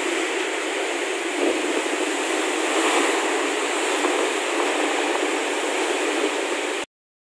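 Heavy rain pouring steadily in a strong, gusting wind, a dense even hiss, cutting off abruptly near the end.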